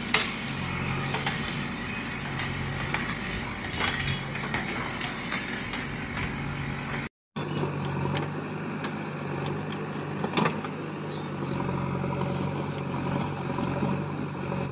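JCB backhoe loader's diesel engine running steadily while it digs, with a high steady whine over it in the first half and a few sharp knocks later on. The sound cuts out completely for a moment about seven seconds in.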